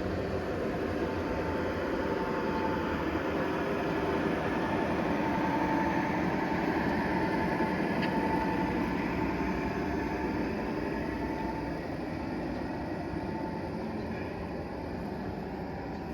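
A train running, a steady rolling rumble that swells slightly towards the middle and eases off a little near the end.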